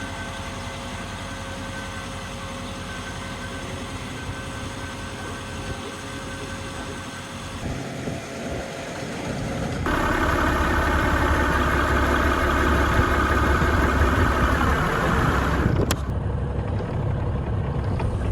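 An engine running steadily. It gets louder about ten seconds in and drops back suddenly near the end.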